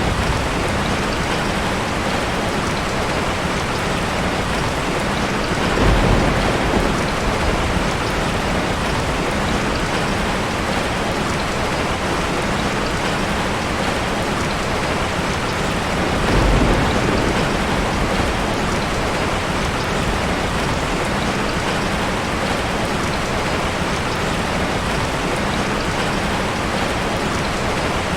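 Steady rain falling, a dense even hiss. Two brief low rumbles rise out of it, about six and sixteen seconds in.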